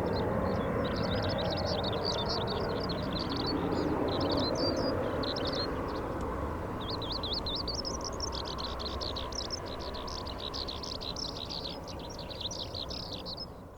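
Small birds chirping in quick, continuous runs, with a short pause about halfway through, over a steady low rumble that slowly fades.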